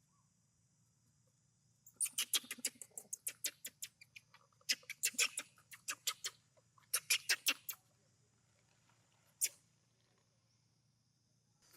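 Monkey making rapid clicking calls in three quick bursts of about eight clicks a second, then one single click, over a steady high insect-like drone.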